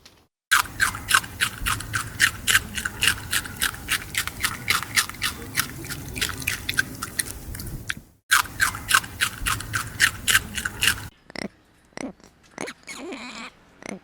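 An animal chewing crunchy food, with a steady run of sharp crunches at about four a second. The crunching breaks off briefly after about eight seconds, resumes, and tails off into a few scattered crunches near the end.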